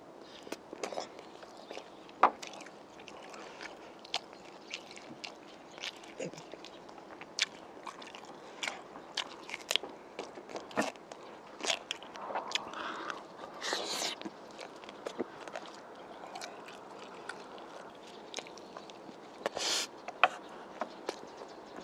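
Close-up eating sounds: chewing and biting spicy braised pork ribs, with many sharp, wet mouth clicks and smacks at irregular intervals. Somewhere in the middle there is crunching, fitting a bite of raw cucumber stick.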